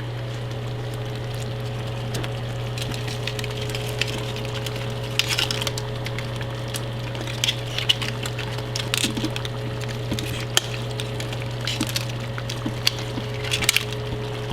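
Seafood being stirred into a pot: a utensil clinking and scraping against the pot now and then, over a steady low hum.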